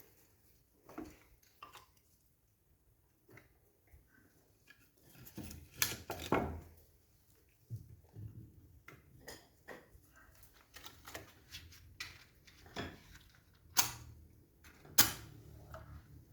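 Pieces of firewood being handled and laid in place for a fire: irregular light knocks and clatters, with a longer scraping stretch about six seconds in and two sharp loud knocks near the end.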